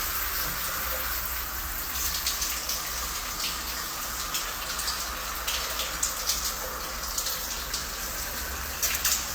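Steady rushing water sound with scattered faint ticks over a low hum.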